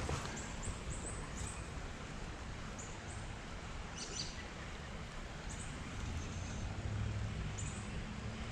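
Short, high bird chirps come every second or so over a steady outdoor hiss. A faint low rumble swells from about six seconds in.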